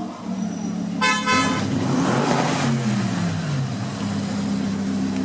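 Lamborghini Huracán's V10 running through a Fi Exhaust, with a short car horn toot about a second in. The engine note swells and then falls in pitch before settling to a steady tone.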